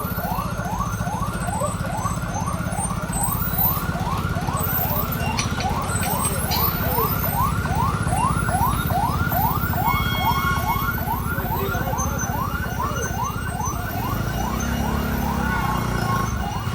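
A siren in a fast yelp: quick rising sweeps about three times a second, kept up throughout. Beneath it a low, steady engine runs.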